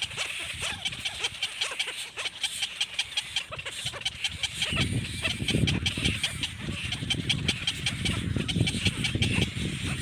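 Baby bird cheeping rapidly and without pause in short high calls. About halfway through, a rough low rustling noise joins in and grows louder.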